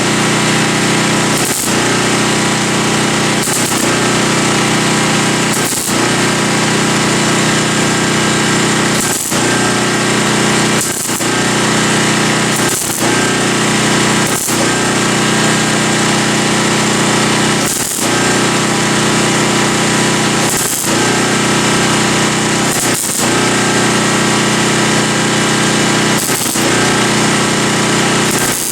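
MIG welder stitch-welding thin sheet metal in short runs, a loud buzzing crackle broken by a brief stop every one to three seconds as the trigger is released.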